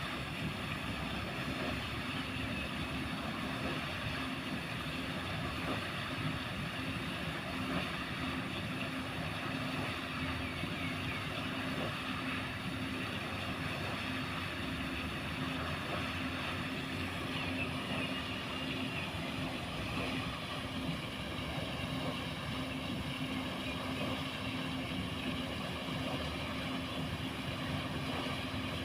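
Water wheel (paddle-wheel aerator) turning in a pond and churning the water, a steady splashing rush with a constant low motor hum.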